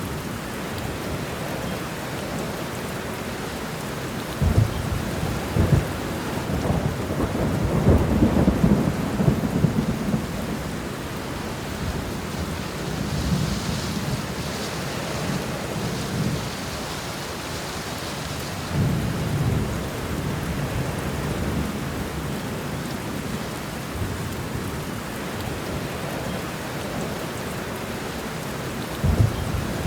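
Steady rain falling, with rolls of thunder rumbling: a long roll peaks about eight to ten seconds in, and shorter rumbles follow later, one near the end.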